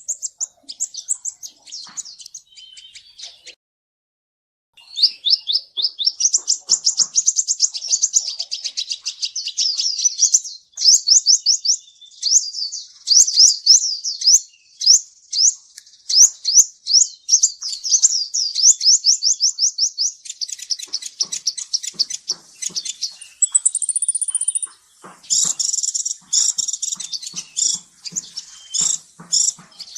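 A Kolibri Ninja sunbird singing: long, fast runs of high, sharp chirping notes, broken by a pause about four seconds in and a thin high whistle near the end.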